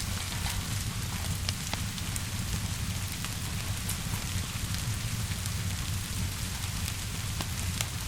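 Steady rainfall hissing, with a low rumble underneath and scattered sharp pops and crackles of a fire.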